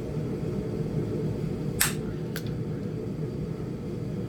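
Two sharp strikes of indirect percussion flintknapping on a Flint Ridge chert biface, about half a second apart near the middle, the first louder.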